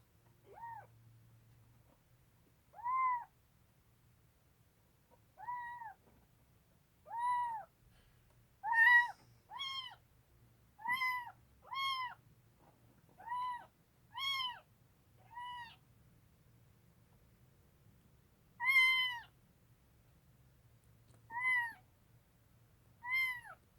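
A young kitten meowing over and over, about fourteen high-pitched calls, each short and rising then falling in pitch, with irregular pauses between them.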